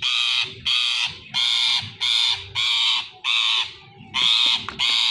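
Ringneck parrot giving a run of harsh, loud squawks, about eight in quick succession, with a short break about four seconds in.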